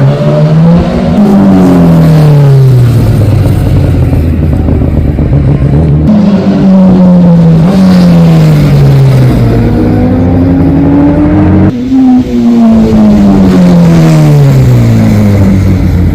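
Racing superbike engines at full volume going past, the engine pitch rising and then falling away in long glides, several times over.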